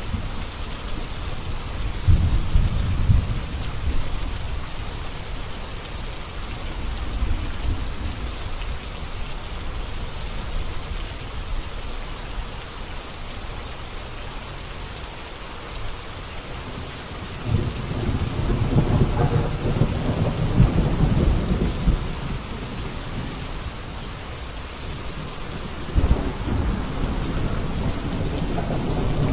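Steady rain with rolls of thunder: a low rumble swells about two seconds in, a longer roll comes past the middle, and another starts sharply near the end.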